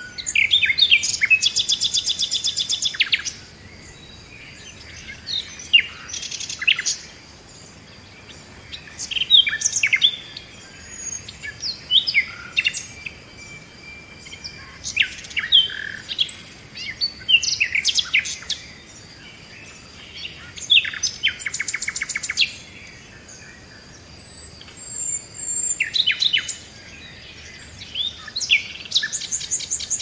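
Birdsong: several birds calling with sharp sweeping chirps and whistles, broken by loud bursts of fast rattling trills every few seconds.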